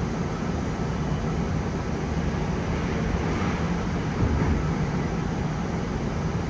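Busan Metro Line 1 subway train running between stations: a steady rumble of wheels on rail and running gear.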